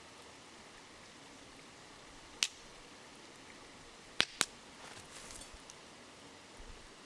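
Wood campfire crackling: sharp pops about two and a half seconds in and twice just after four seconds, then a few small crackles, over the steady hiss of a flowing river.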